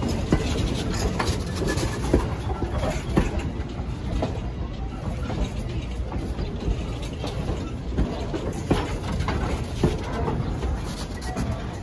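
Strasburg Rail Road wooden passenger coaches rolling past with a steady rumble. The wheels make irregular clicks and knocks on the rails.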